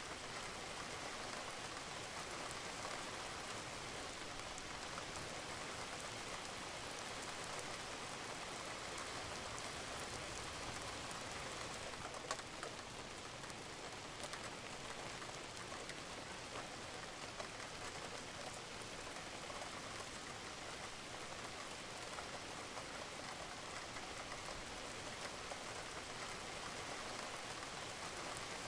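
Steady rain falling on a roof, an even patter with scattered drip ticks, one a little louder about twelve seconds in.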